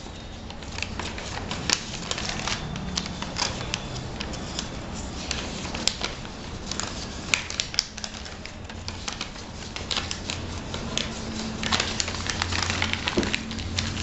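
Sheet of paper being folded and creased by hand for an origami flapping bird: a run of irregular crackling clicks and rustles as the folds are pressed flat.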